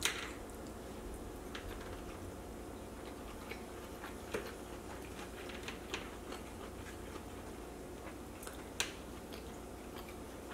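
A person chewing a mouthful of soft rice and vegetables: faint, irregular little clicks of the mouth and jaw, with a sharper click at the very start and another near the end.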